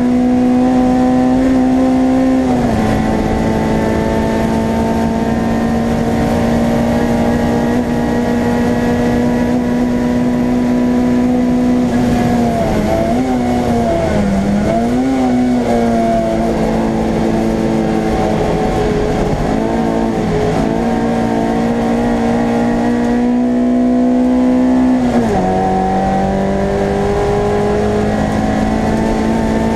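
Race car's engine heard from inside the stripped cabin, driven hard at high, steady revs. The note drops suddenly about two and a half seconds in and again near the end, as with upshifts, and wavers and dips about halfway through as the driver comes off the throttle, before the revs climb again.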